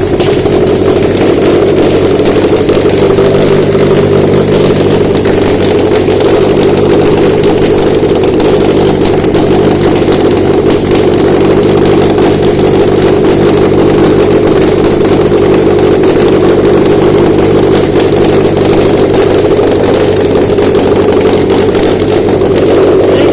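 Subaru FB20 2.0-litre flat-four petrol engine running steadily on a test stand, being checked out of the car.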